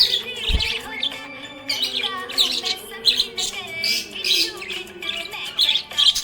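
Pet budgerigars chirping busily, many short, rapid chirps and warbles one after another, over background music.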